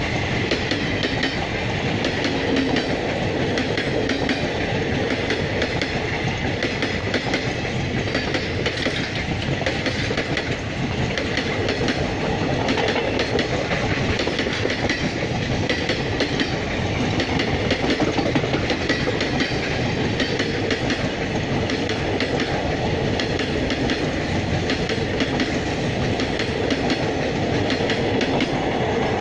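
Indian Railways passenger coaches rolling past at speed: a steady, loud rumble of steel wheels on rail with a rapid clickety-clack over the joints.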